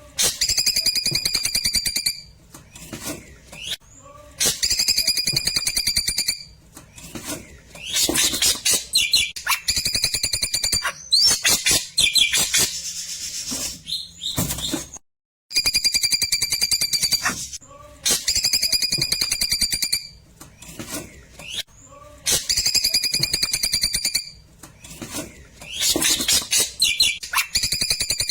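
Klewer bird song: bursts of rapid, buzzy trills about two seconds long, alternating with varied chirps and sweeping whistles. The sequence repeats after a brief cut about 15 seconds in.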